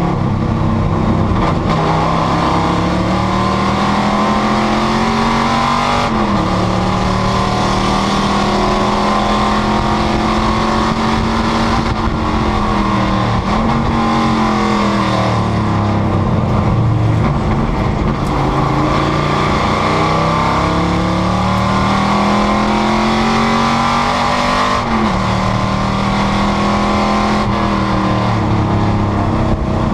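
Panoz GTS race car's V8 engine pulling hard at speed, its pitch climbing slowly and dropping sharply at an upshift about six seconds in and again near the end. In the middle it falls and wavers as the driver lifts and downshifts for a corner, then builds again.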